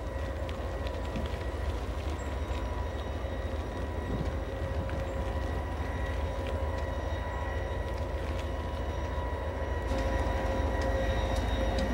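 A train running along the tracks: a steady low rumble that grows a little louder near the end.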